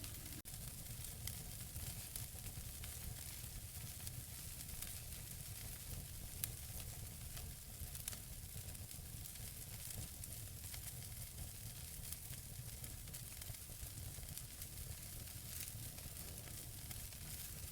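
Wood fire burning in a fireplace: logs crackling with frequent small, irregular pops over a steady low rumble and hiss, one sharper pop about six and a half seconds in.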